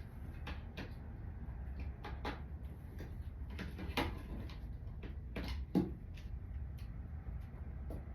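A few plastic clicks and knocks from a SHEIN hair dryer being handled and switched, the sharpest about 4 s and just before 6 s in, with no motor starting: the dryer is dead.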